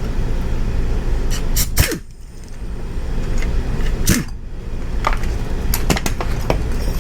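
Scattered metallic clicks and knocks of a wrench with a 10 mm socket working bolts loose on a motorcycle, over a steady low hum.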